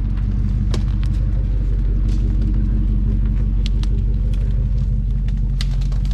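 Jeep Grand Cherokee ZJ's 5.9-litre V8 engine running steadily at low speed on a rough trail, with sharp clicks and knocks every second or so from the front end, which the driver puts down to the factory sway bar bushings.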